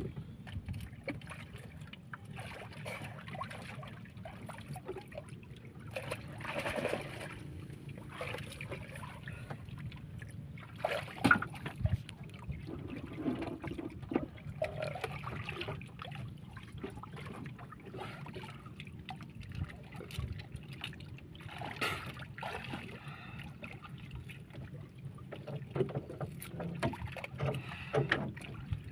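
Water sloshing and splashing, with scattered knocks, over a steady low rumble; the sharpest knock comes about 11 seconds in.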